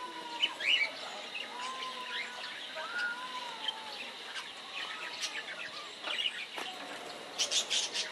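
A chorus of small birds chirping and calling, with a few drawn-out whistles, and a louder burst of rapid chirps near the end.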